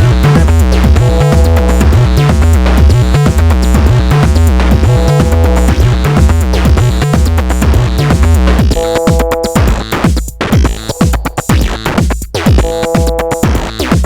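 Eurorack modular synthesizer playing an acid-style jam: sequenced Make Noise oscillator lines over electronic drum hits. Around nine seconds in, the heavy bass drops out and the pattern turns sparser and choppier, with short gaps between hits.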